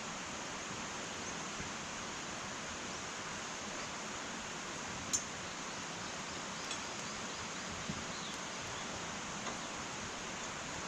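Wood fire burning in an irori hearth: a steady soft hiss with a few sparse crackles and pops, the sharpest about halfway through.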